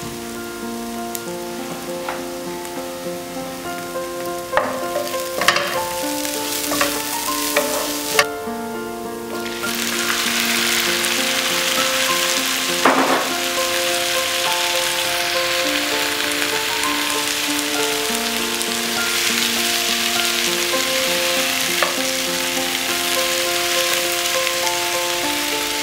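Chopped onion and garlic sizzling in oil in a nonstick pan, with a few sharp knocks. About ten seconds in, diced tomatoes go into the pan and the sizzle turns suddenly louder and denser. It stays that way as the tomatoes are stirred with a wooden spatula.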